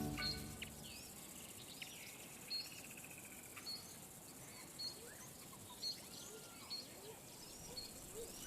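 Faint African bush ambience: birds calling in short, high chirps and small rising and falling whistles, about once a second, over a soft steady hiss.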